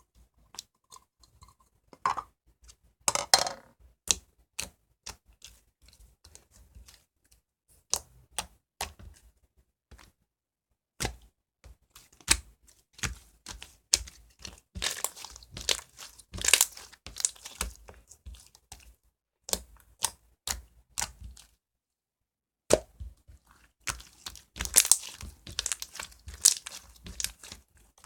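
Elmer's Glue-All slime being pressed and stretched by hand, giving irregular sticky clicks and pops, with crackly clusters and a couple of short pauses.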